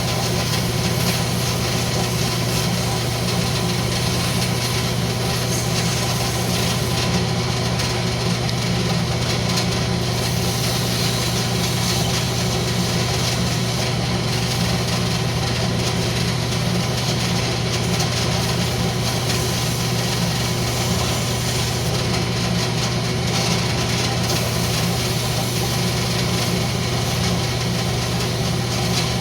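Wood lathe running steadily with a low motor hum, with a steady hiss of 180-grit sandpaper rubbing on the spinning rosewood pull.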